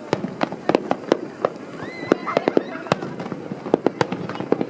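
Fireworks display going off: a rapid, irregular string of sharp bangs and pops, several a second, without a pause.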